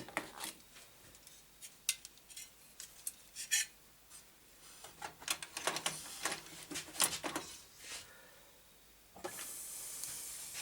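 Scattered clicks, taps and scrapes of computer hardware being handled as the Pentium 4 processor is put back into its motherboard socket, with a steady rasping rub for about a second near the end.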